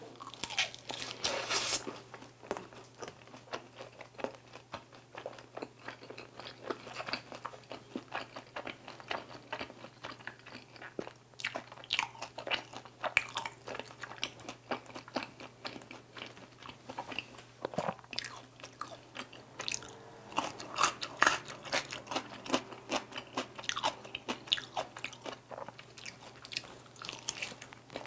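Close-miked biting and chewing of crispy glazed Korean fried chicken bites (dakgangjeong), a dense run of crunches, loudest just after the first bite and again in later spurts.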